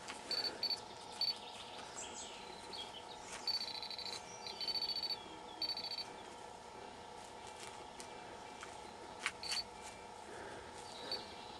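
Metal detector beeping in short, high-pitched electronic tones as it is swept over a weak target: three quick beeps, then three longer ones a few seconds in, and one more near the end. The beeps mark a small buried coin being pinpointed.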